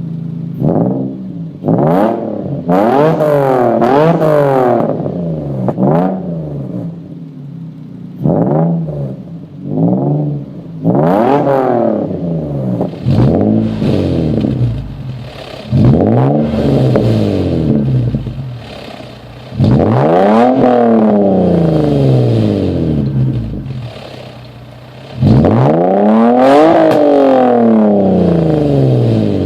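Infiniti G35's 3.5-litre V6 through an aftermarket exhaust, revved over and over: quick short blips in the first half, then longer climbs in pitch that fall back down, each followed by a return to idle.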